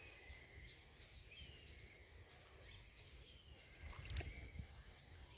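Near silence on the water: a faint low rumble and a few faint high chirps, with a couple of soft knocks about four seconds in.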